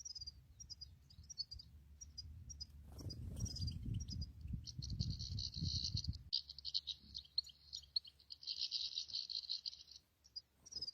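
European goldfinches singing: long runs of rapid, tinkling high notes, patchy at first and then nearly continuous from about six seconds in. A low rumble runs under the song from about three to six seconds in.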